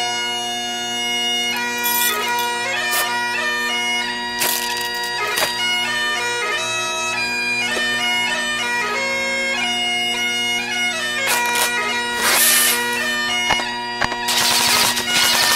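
Bagpipe music: a steady drone held under a melody of changing notes, with a few short bursts of noise about four seconds in, around twelve seconds in, and near the end.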